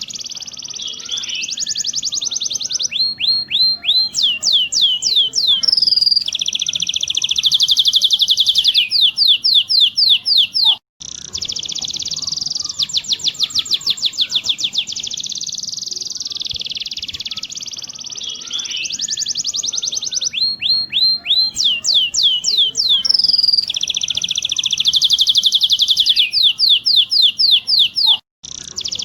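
Domestic canary song: high, fast rolling trills and runs of quick falling whistled notes, a master recording for training young canaries to roll. The same song passage plays twice, with a brief cut-out about eleven seconds in and another near the end.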